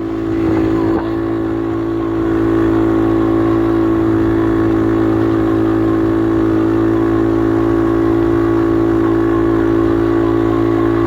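Kayo motocross bike engine running at a steady, unchanging pitch, getting a little louder over the first couple of seconds and then holding even.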